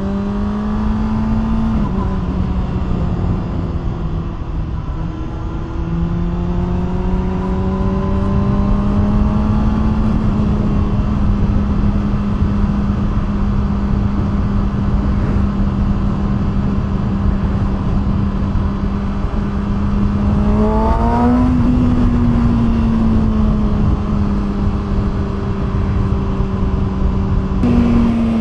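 2020 Kawasaki ZX-6R's inline-four engine running loud through an SC Project aftermarket exhaust while the bike is ridden, held at a fairly steady engine speed. The revs rise briefly about two thirds of the way through and step up again just before the end.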